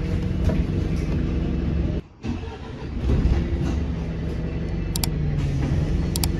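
Steady vehicle engine noise that drops out briefly about two seconds in, then resumes with a low hum and a few sharp clicks near the end.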